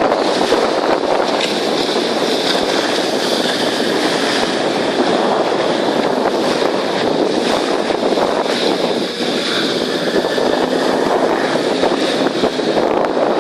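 Steady rush of a boat under way: wind on the microphone over the sound of the hull moving through water.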